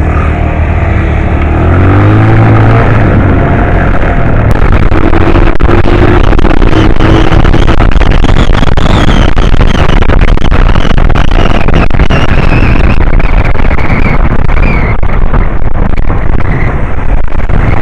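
A 125cc motorbike pulling away, its engine note rising over the first few seconds, then riding at speed with heavy wind rushing over the microphone and the engine underneath.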